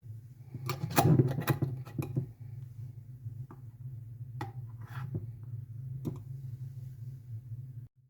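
Kitchen utensils and dishes knocking and clinking as they are handled, a cluster of clicks about a second in, then single knocks, over a steady low hum.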